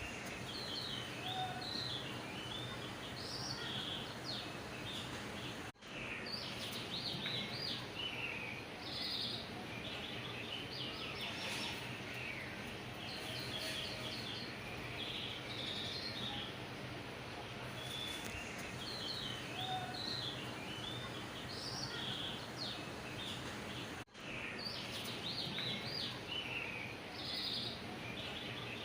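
Small birds chirping in quick clusters over a steady background hiss and low hum. The sound cuts out for an instant twice.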